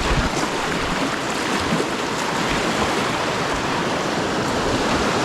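Rushing whitewater of a river rapid: a steady, even rush of water.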